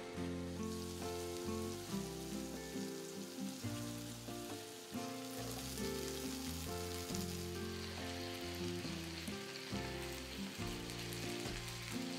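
Chicken and leek yakitori skewers sizzling in oil in a frying pan, over background music.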